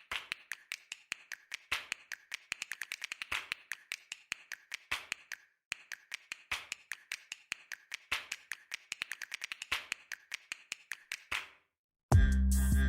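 Rapid clicking taps in a quick, uneven rhythm, with two short pauses. Loud music with a heavy beat cuts in near the end.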